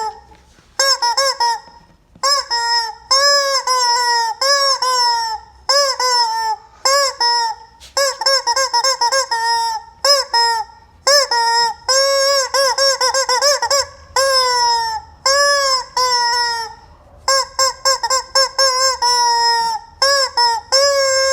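Rubber chicken squeak toy squeezed over and over, giving a long run of honking squawks, each bending up and back down in pitch. Some squawks are short and some drawn out, coming in quick clusters with brief gaps between.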